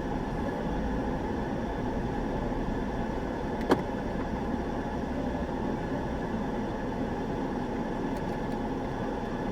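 Steady noise of a car heard from inside its cabin, a low engine and road hum, with a single sharp click a little under four seconds in.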